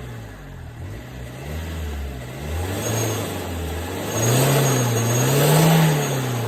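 Renault Clio III 1.5 dCi four-cylinder turbodiesel, fitted with a downpipe and muffler, revved in a few throttle blips, the exhaust note rising and falling back each time, with two bigger revs near the end.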